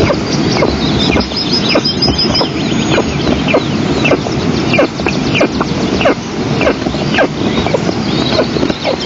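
Eastern imperial eagle chicks begging for food: a run of short, sharply falling calls, about two a second, over a steady background hiss.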